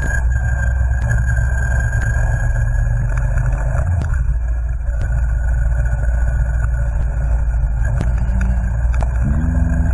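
Yamaha Venture touring motorcycle's engine running steadily at road speed, under a constant rush of wind and road noise.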